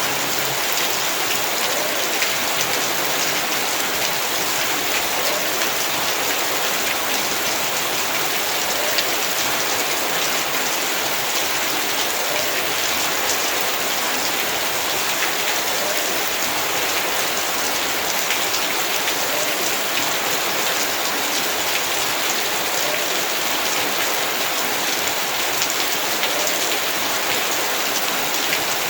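Heavy rain falling steadily on surfaces, a dense even hiss with many fine drop ticks.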